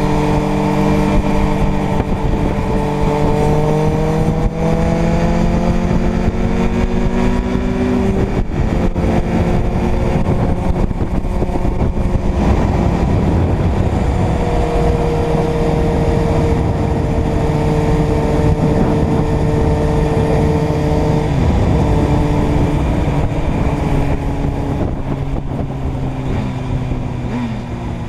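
Inline-four motorcycle engine under way, with wind noise. The engine climbs steadily in revs, drops sharply about eight seconds in, holds a steady pitch through the middle, and eases off toward the end.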